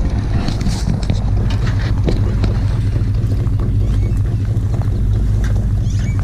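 A vehicle engine idling steadily: a loud, even low hum.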